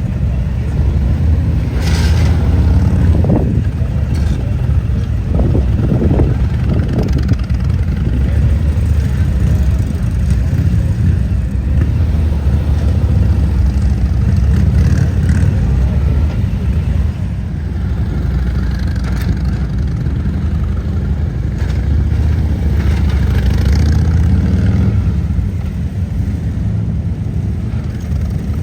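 Motorcycle engines running with a steady low rumble, revving up and down at times as riders work a slow-speed skills course.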